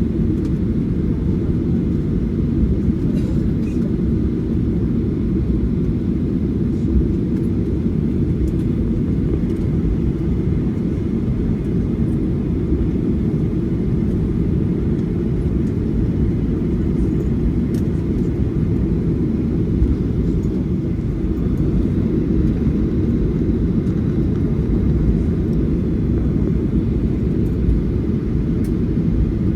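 Steady low rumble inside the cabin of a Boeing 737-800 taxiing after landing, with an occasional faint click.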